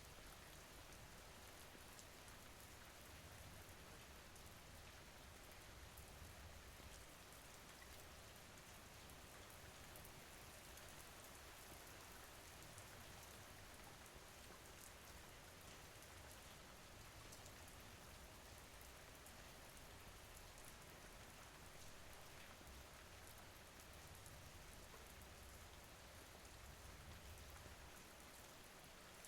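Faint, steady rain falling, with a soft even hiss and scattered light drop ticks.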